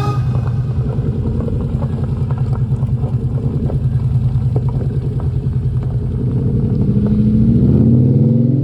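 Cobra replica sports car engine running with a fast, lumpy throb, then rising in pitch and growing louder from about six and a half seconds in as it accelerates.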